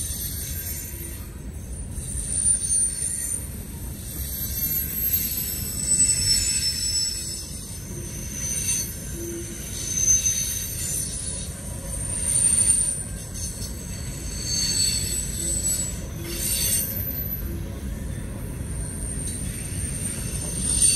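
CSX freight train cars rolling past with a steady rumble from the wheels on the rails, which swells as each truck goes by. High-pitched wheel squeals come and go over the rumble.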